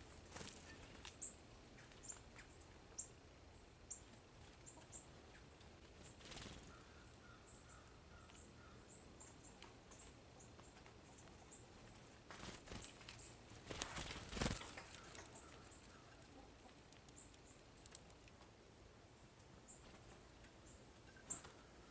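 Faint, short, high-pitched bird chirps, scattered every second or so, from small birds at a feeder. Louder rustles, like wing flutters, come about six seconds in and again from about twelve to fifteen seconds in.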